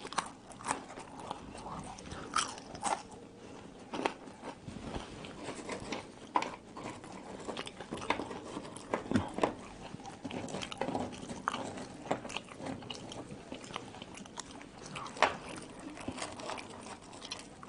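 A person biting and chewing French fries, with irregular crunches and mouth sounds and a few louder bites.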